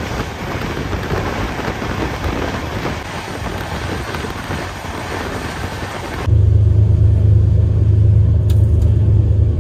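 Steady rushing noise, then about six seconds in an abrupt change to a loud, steady low rumble: the running noise of a moving express train heard inside its third AC sleeper coach.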